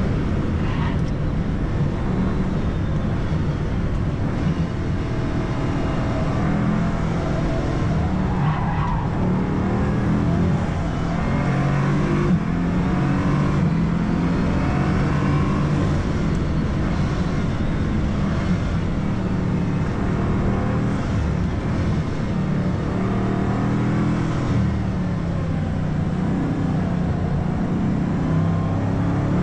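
Bugatti Chiron Pur Sport's quad-turbocharged W16 engine running hard on a circuit, its revs repeatedly rising and dropping as it accelerates, shifts gear and slows for corners.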